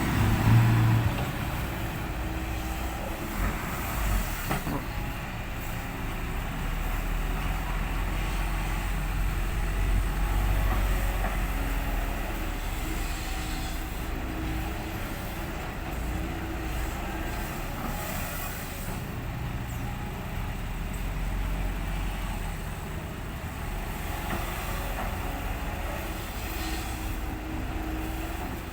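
Heavy diesel engines of an excavator and ten-wheel dump trucks running steadily with a low rumble.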